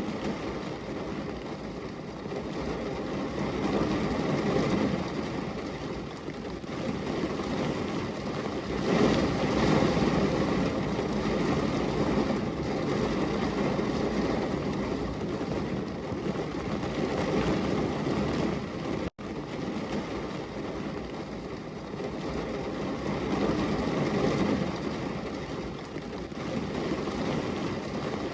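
Heavy rainstorm ambience: a dense, steady rush of rain that swells and eases every few seconds. It cuts out for an instant about 19 seconds in.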